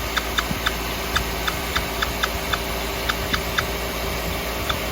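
A 2015 Nissan X-Trail 2.5 engine running, with a rapid, slightly irregular series of short high chirps, about four a second at first and fewer toward the end.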